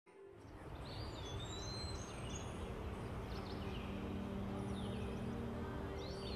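Birds chirping, with scattered short high calls and sliding whistles over a steady low background hum, fading in over the first second.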